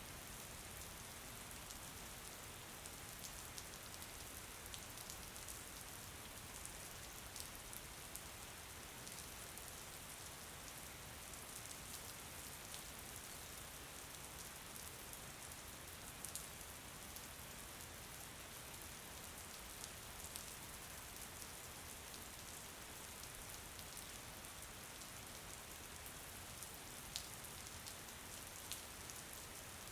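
Steady rain falling, an even hiss with scattered drop ticks, a few sharper ones near the end.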